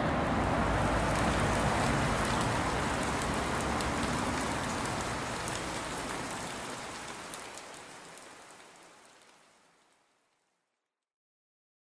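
A steady, rain-like hiss with faint crackles, fading out gradually over about eight seconds to silence.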